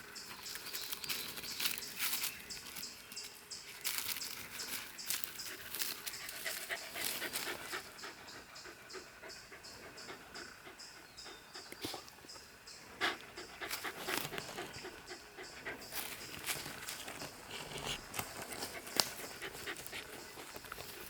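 Welsh corgi panting on a walk, mixed with frequent short scuffs and rustles.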